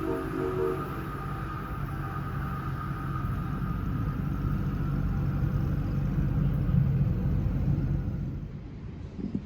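Passenger train passing: a steady low rumble that swells, then falls away near the end, with a brief pitched note in the first second.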